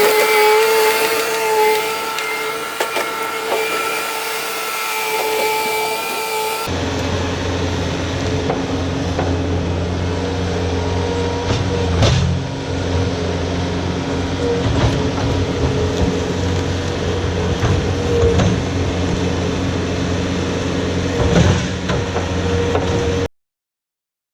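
Skid steer at work: the engine runs with a steady high whine, then after a cut a steady low diesel drone with occasional metallic clanks from the machine. It stops abruptly near the end.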